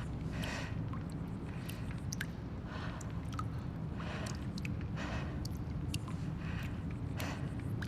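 Abandoned-building ambience: a steady low rumble with small irregular creaks, rustles and sharp ticks scattered over it, roughly one every half second to second.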